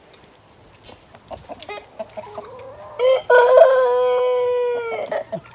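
A rooster crowing once, one long call of about two seconds starting about three seconds in, held level and falling away at the end. Before it, chickens cluck quietly.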